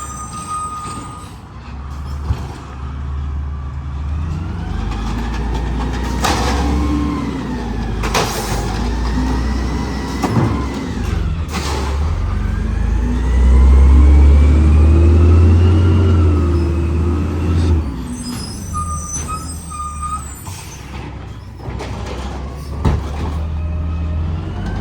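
Garbage truck running. Its engine revs up and falls back twice with a rising and falling whine, the second rev loudest, and a few sharp bangs.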